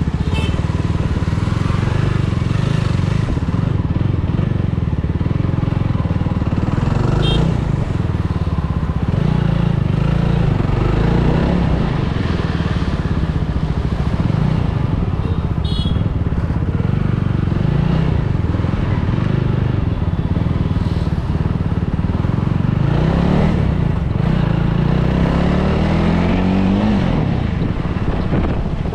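Superbike engine running at low road speed, with the revs climbing for a few seconds near the end and then dropping back.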